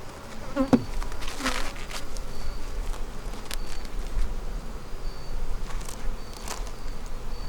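Honeybees buzzing around an open hive, with a bee flying close to the microphone a couple of times so its buzz sweeps in pitch. Several sharp clicks sound through it.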